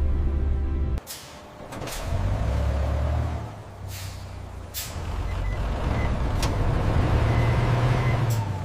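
A heavy vehicle's engine running low, with several short sharp hisses of released air, as from truck air brakes.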